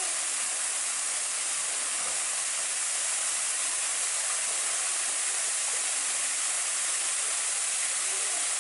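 Waterfall pouring: a steady, even rush of falling water that stays strongest in the high range.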